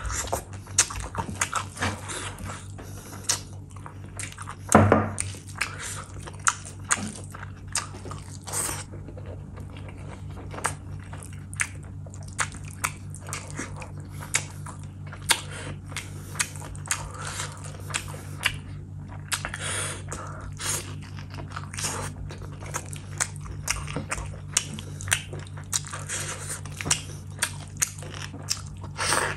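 Wet, smacking chewing of mouthfuls of mutton curry and rice, with many small clicks and squishes as fingers work the rice into the gravy, over a low steady hum. One louder knock about five seconds in.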